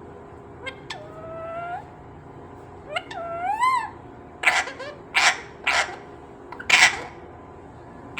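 Pet green parrot calling: two drawn-out whistled calls, the second wavering and rising, then a run of about five short harsh screeches.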